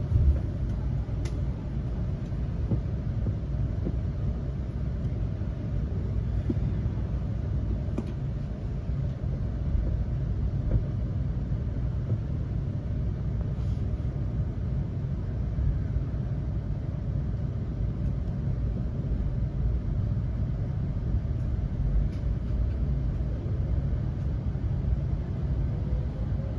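Steady low rumble of a West Kyushu Shinkansen Kamome train, heard from inside the passenger car as it runs after leaving the station, with a few faint clicks.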